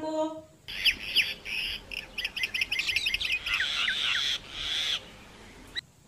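Myna calling: a run of varied whistles, clicks and chattering notes, starting about a second in and going on for about five seconds, with several quick falling whistles in the middle.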